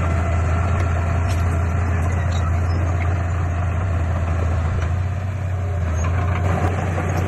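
Heavy diesel engine of earthmoving machinery running steadily with a deep, constant drone, easing slightly about five seconds in.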